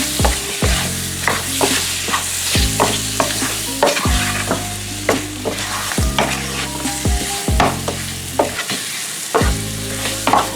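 Chicken pieces sizzling in hot oil and curry powder in a pot while a spoon stirs and turns them, knocking and scraping against the pot about twice a second.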